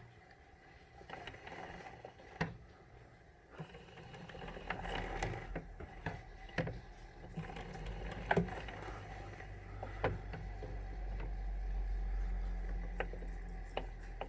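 Concept 2 rowing machine being worked by hand, the flywheel spinning up into a low hum that swells over several seconds. A sharp clack comes roughly every one and a half to two seconds with the strokes. This is the noise the owner is trying to trace, which seems less loud with the machine upside down.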